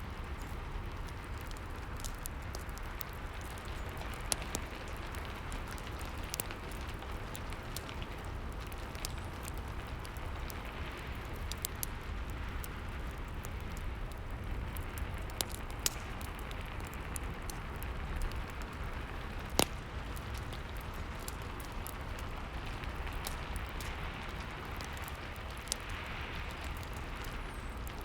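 Steady rain with a wood fire crackling over it: scattered sharp pops and snaps, the loudest about two-thirds of the way through.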